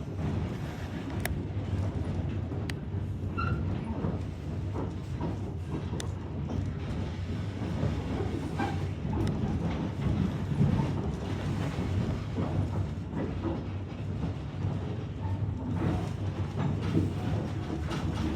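Narrow-gauge train running on the rails: a steady low rumble with scattered sharp clicks and clanks.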